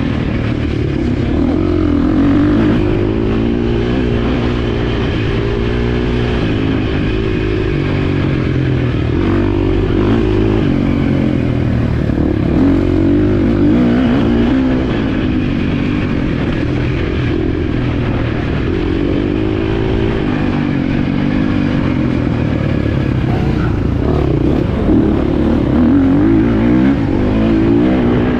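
Motocross bike engine revving while being ridden, its pitch rising and falling again and again with throttle and gear changes.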